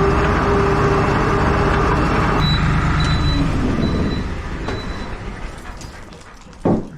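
Truck engine running steadily, then dropping away and fading after about two and a half seconds. A few faint high beeps sound in the middle, and a short loud thump comes near the end.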